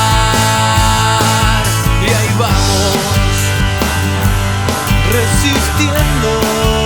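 Rock band playing, with drums, bass and electric guitars.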